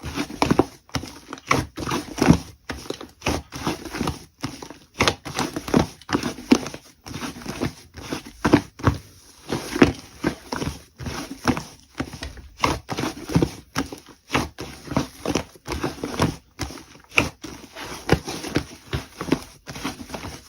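Slime being squished and kneaded by hand, making an irregular stream of sticky clicks and pops.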